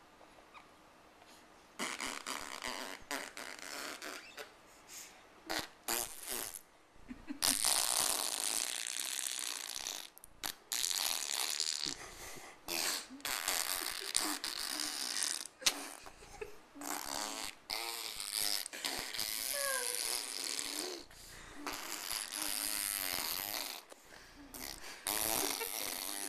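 Baby blowing raspberries: repeated buzzing lip trills, some long and some short, with bits of voiced babble mixed in.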